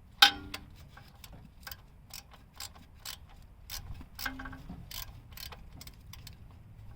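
Hand ratchet clicking in irregular short runs on an engine mount bolt. About a quarter second in there is a sharp metal clank that rings briefly, and a fainter ringing clink comes about four seconds in.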